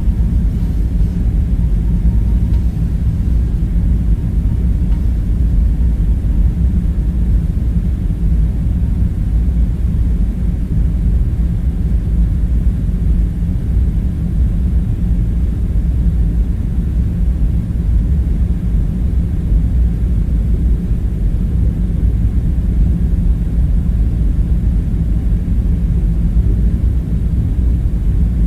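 Steady low rumbling drone with a faint underlying hum, even throughout, like the constant background machinery rumble of an underground room.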